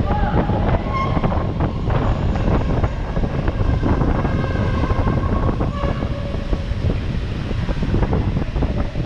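A train moving on the rails: a loud, steady rumble with faint, held squealing tones from the wheels.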